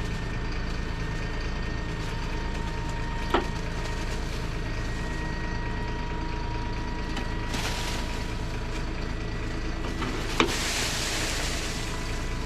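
Heavy military diesel truck, an M1078 LMTV, running steadily with a constant whine over the engine. Two sharp knocks about seven seconds apart, and a hissing rush in the last two seconds.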